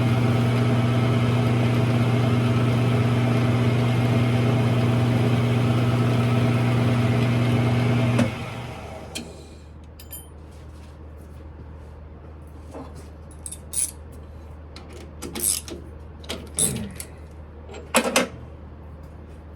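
Smithy lathe running with a steady motor hum, switched off about eight seconds in and quickly running down. After that a faint low hum stays, with a few short clicks and knocks of parts and tools being handled.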